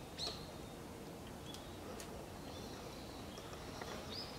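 Small birds giving short, high chirps on and off over a steady outdoor background hiss, the loudest chirp just after the start.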